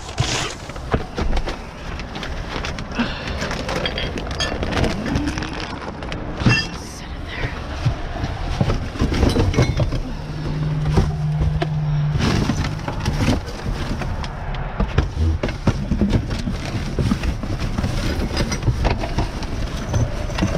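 Rummaging through trash in a dumpster: plastic bags rustling and discarded items knocking and clattering against each other. A steady low hum runs for about three seconds near the middle.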